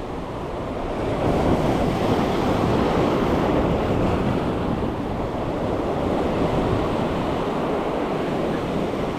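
Ocean waves washing in on the shoreline, a steady rushing surf that builds about a second in, with wind buffeting the microphone.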